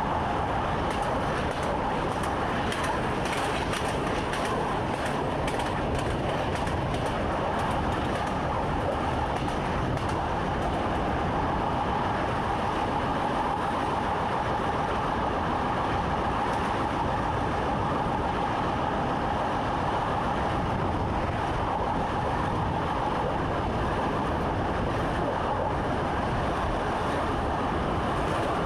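Train running steadily along the track, heard from inside the driver's cab: a constant rolling rumble with a steady hum over it.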